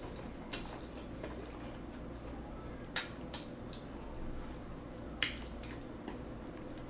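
A few short, sharp wet clicks and smacks of a person eating close to the microphone, four in all, spread over several seconds.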